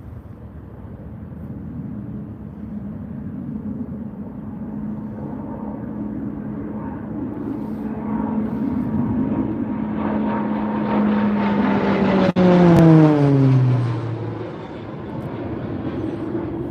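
RAF Texan T1 (Beechcraft T-6C Texan II) turboprop trainer flying past, its single propeller-turbine engine growing steadily louder as it approaches. Its steady note peaks about twelve seconds in, then drops sharply in pitch as the aircraft passes and fades away.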